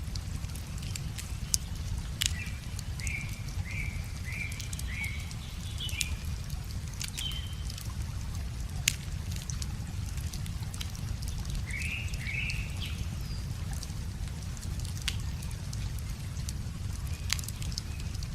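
Wood fire crackling with scattered sharp pops, over the steady low rush of a flowing river. A bird calls a run of about five short chirps a couple of seconds in, with a few more notes later.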